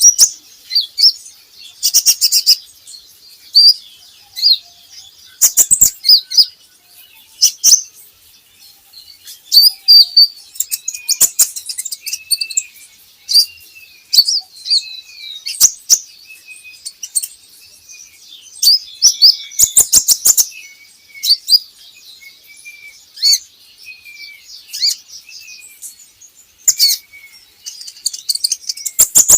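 Kolibri ninja sunbird song: rapid high-pitched chirps and trills, broken every few seconds by short loud bursts, with a run of lower short notes from about a third of the way in.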